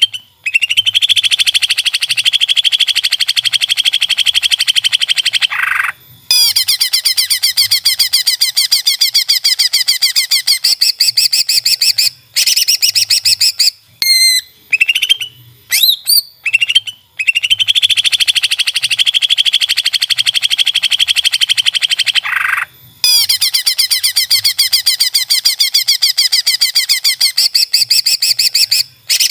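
A songbird singing long, very fast, rattling trills of several seconds each, broken by short chirps and quick whistled notes. The same run of phrases comes round again about halfway through, as in a looped song recording.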